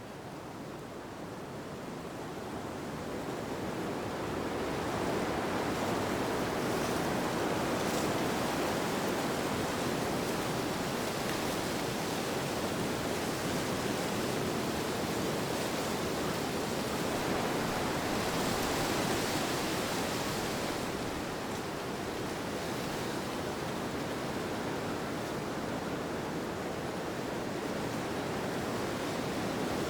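Steady rushing wind, swelling over the first few seconds, with a stronger, hissier gust about two-thirds of the way through that then eases off.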